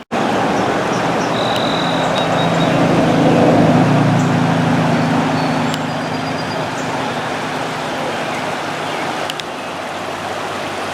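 Rushing river water, with an engine's steady hum that swells to its loudest about four seconds in and fades out by about eight seconds.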